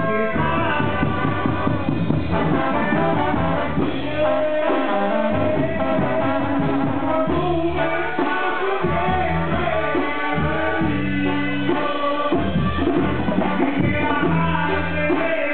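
Mexican banda-style brass band music, with trumpets and trombones carrying the tune over a stepping bass line.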